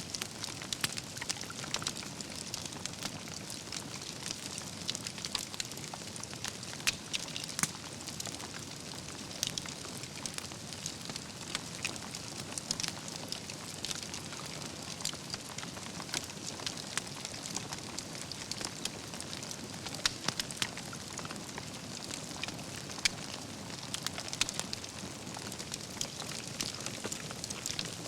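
Wood campfire burning: a steady hiss and low rush, with constant sharp crackles and pops from the burning logs and embers.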